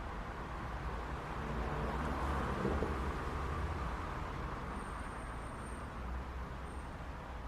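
City street traffic: a steady low rumble of engines and tyres, with one vehicle passing close about two to three seconds in.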